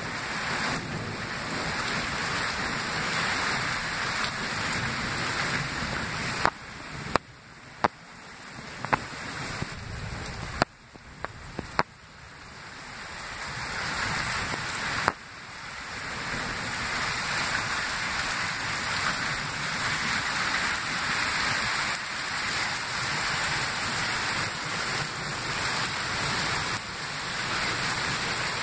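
Heavy thunderstorm rain falling steadily. In the middle stretch it drops quieter and is broken by several sharp knocks, then the steady rain returns.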